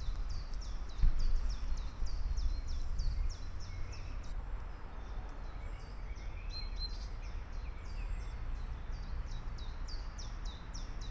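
A songbird singing a rapid run of short, falling high notes, about three a second, over a steady low rumble. A brief thump about a second in.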